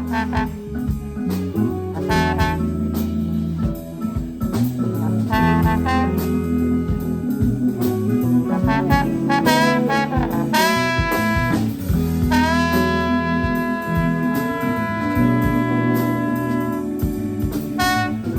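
A band playing jazz: a horn lead with held and bending notes over bass and drums.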